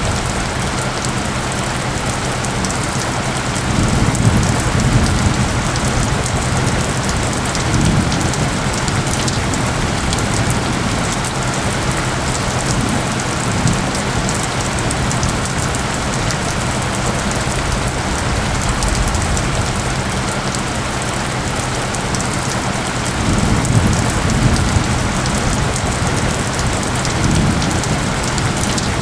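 Steady heavy rain hiss with low rumbles of distant thunder swelling about four seconds in and again near the twenty-four second mark. Under the rain, faint steady low tones hum: the isochronic tones mixed into the soundscape.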